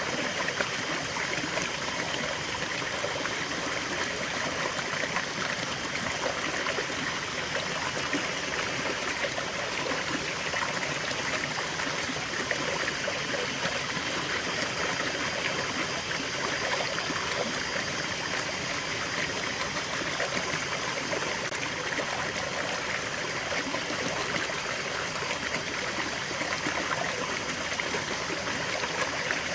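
Small stream flowing steadily, with water trickling and babbling over stones.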